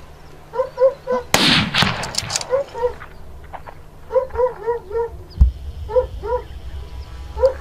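Hunting dogs barking in quick repeated barks on a boar hunt, with one loud gunshot about a second in that echoes away.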